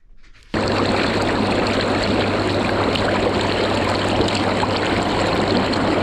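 Inflatable hot tub with its air-bubble jets on: water bubbling and churning over the steady hum of the blower. It starts abruptly about half a second in and holds steady.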